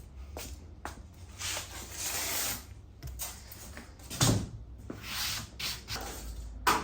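Handling noises: scattered clicks and rustling, with two louder knocks, about four seconds in and near the end.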